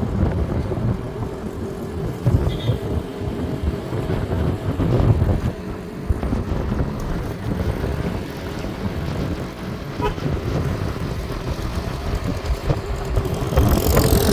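Motor vehicle driving, with an uneven low rumble of engine and road noise throughout and a faint steady hum.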